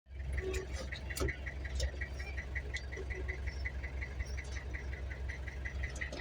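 Vehicle engine running with a steady low rumble, overlaid by a fast, even, high-pitched ticking of about seven ticks a second.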